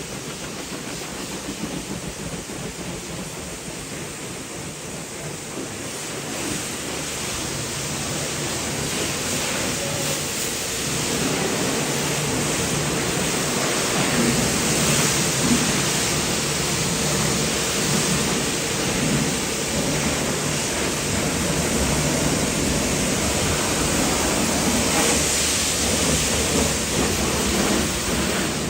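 Pressure washer spraying water onto a car's bodywork: a steady hiss that grows louder about six seconds in and again around eleven seconds. A faint steady tone joins about ten seconds in.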